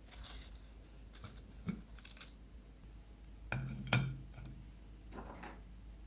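Kitchen dishes and utensils being handled: scattered light clinks and knocks, with the loudest two close together about three and a half seconds in.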